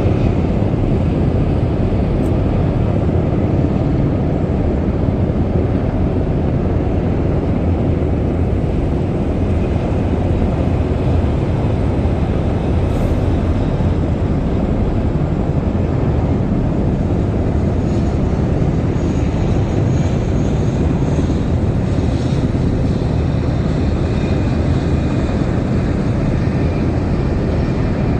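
Aircraft engines at an airshow, a steady low rumble that holds level throughout, with a faint high whine in the second half.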